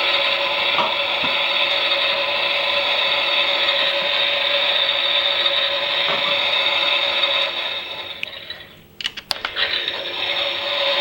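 Toy washing machine's small electric motor and gears whirring steadily as the drum turns. About eight seconds in the whirr winds down, a few clicks follow, and it starts up again.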